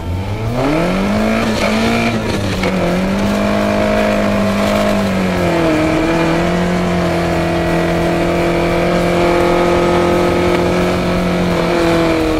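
Honda CRX's four-cylinder engine revving hard as the car is driven flat out: the revs climb steeply in the first second and hold high, drop to a lower pitch about five and a half seconds in, then hold steady.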